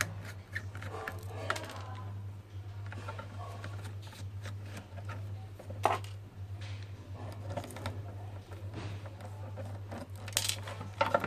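Handling sounds of a small incubator's control board being unscrewed and taken out of its plastic housing: scattered clicks and short scrapes of screwdriver and plastic, over a steady low hum.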